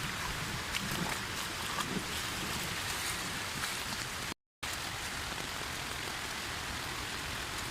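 Heavy tropical rain falling steadily, a dense even hiss with scattered drop ticks, broken by a very short gap a little past halfway.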